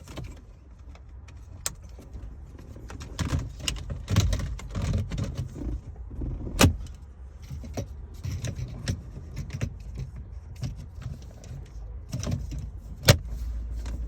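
Plastic dash trim being fitted back into a car, with rustling and handling noise and several sharp clicks as the panel clips snap in; the loudest click comes near the end.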